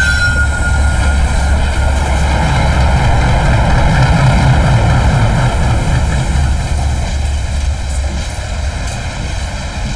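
Diesel locomotive and its coaches running along the track: a loud, steady, deep rumble that swells about four seconds in and then eases slightly. A thin high whine fades out in the first second.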